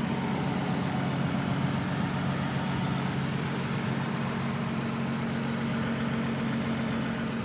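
2011 Lexus ES's V6 idling steadily and evenly after a cold start, very quiet and sounding healthy.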